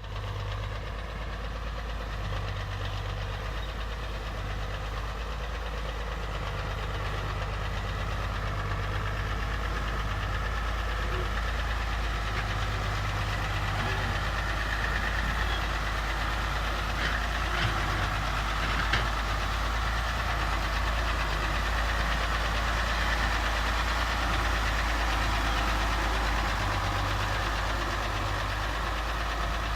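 Heavy diesel engine of earthmoving machinery running steadily at work, building slowly in loudness, with a few sharp knocks a little past halfway.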